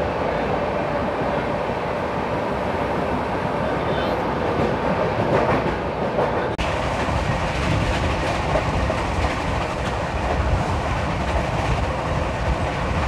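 Sleeper coach of the Sampoorn Kranti Express running through a station at speed: a steady noise of steel wheels on the rails. The sound changes abruptly about halfway through.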